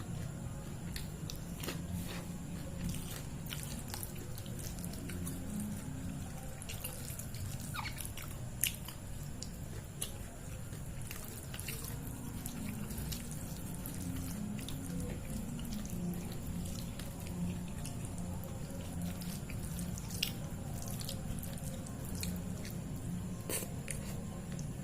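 Close-miked eating of soft, wet food (dal, bottle-gourd-and-shrimp curry, mashed potato): moist chewing and mouth clicks. Scattered sharp clicks sound over a steady low hum.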